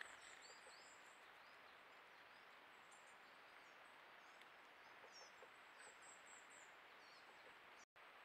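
Faint, high-pitched chirps of small forest birds calling on and off over a steady hiss, with a brief drop to silence just before the end.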